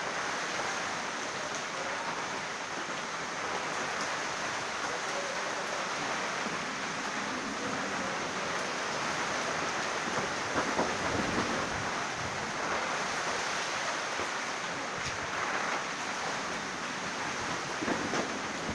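Heavy rain falling steadily, an even hiss with a few brief louder patches about ten seconds in.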